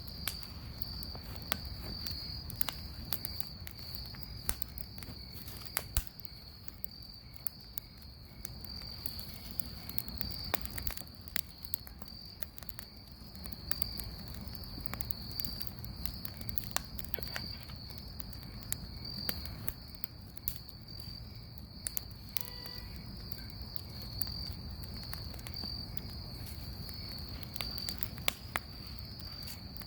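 Bonfire crackling, with irregular sharp pops and snaps over a low rumble, against crickets chirping in a steady high pulsing trill.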